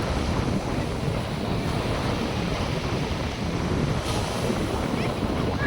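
North Sea surf washing onto the beach, a steady rushing with wind buffeting the microphone.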